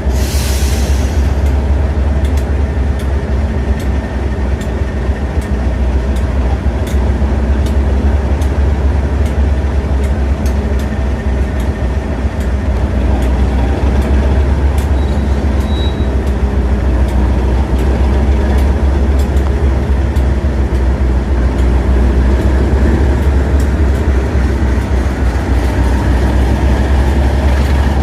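Two Class 37 diesel-electric locomotives, with English Electric V12 engines, pulling away under power: a loud, steady, deep engine drone with faint clicks over it.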